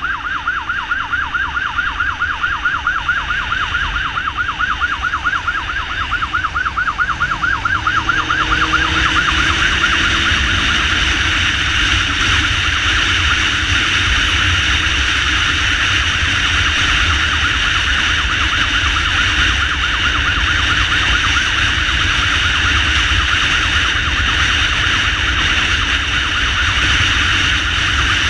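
Ambulance motorcycle's electronic siren in a fast yelp, warbling several times a second. About nine seconds in it turns into a steadier, louder high wail. Engine and wind rumble run underneath, with the engine revving up around the change.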